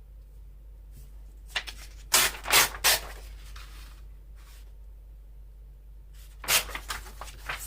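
Paper being handled on a craft table: two clusters of short rustling, scratchy bursts, about two seconds in and again near the end.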